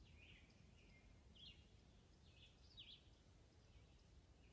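Near silence with faint bird chirps: a few short high calls, roughly a second apart.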